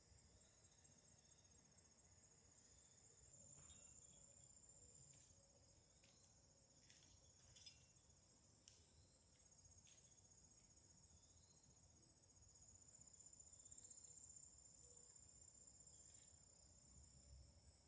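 Faint, steady high-pitched chirping of crickets, a continuous pulsing trill, with a couple of brief clicks about halfway through.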